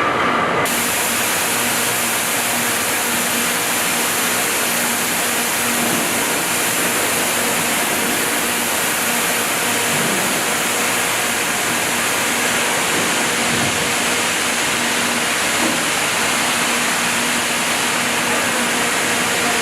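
Steady machinery noise on an engine factory floor: an even, strong hiss with a faint low hum beneath it, cutting in abruptly just after the start.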